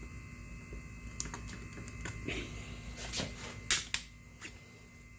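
Scattered clicks and light knocks of hand tools and scooter wheel parts being handled, with the sharpest clack a little before four seconds in, over a faint steady hum.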